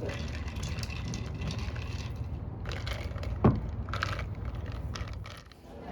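Small clicks and crackles of cutlery and dishes during a meal over a steady low background hum, with one short, loud falling squeak about three and a half seconds in.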